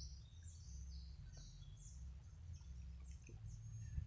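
Small birds chirping: a quick run of short, high, falling notes, thinning out after about two seconds, over a low steady rumble. A single knock comes right at the end.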